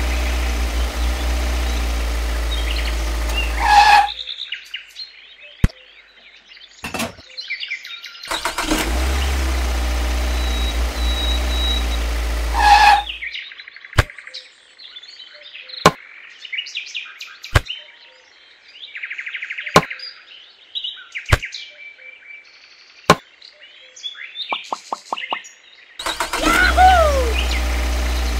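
A toy tractor's engine sound runs steadily in three stretches, the first two ending in a short rising tone. Between them come sharp single clicks about every one and a half to two seconds as small pebbles are set down in the toy trailer, with faint bird chirps in the background.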